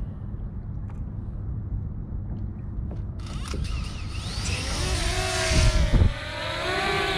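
DJI Mini quadcopter drone's propellers whining close by. The sound comes in abruptly about three seconds in, over a low rumble, and its pitch wavers up and down as the drone is flown, with a brief loud low thump near the six-second mark.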